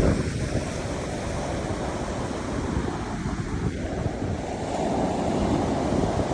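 Surf washing on a shore with wind buffeting the microphone; the rush of the waves swells again about two-thirds of the way through.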